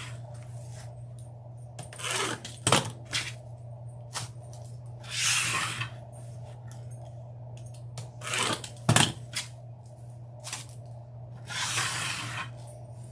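Deco mesh rustling and crinkling in four short bursts as it is handled, with a few sharp clicks in between. A steady low hum sits underneath.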